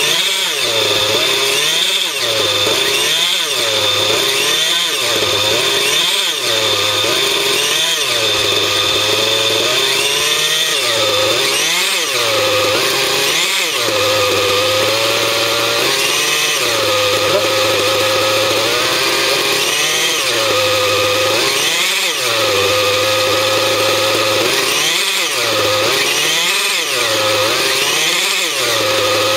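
T-REX 700 RC helicopter running, its pitch repeatedly sagging and recovering every one to three seconds, with a thin high whine over the first dozen seconds. The sound carries an abnormal noise that the owner is trying to pin down.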